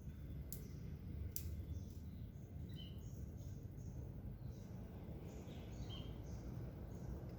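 Small birds giving short chirps on and off over a steady low background rumble, with two sharp clicks in the first second and a half.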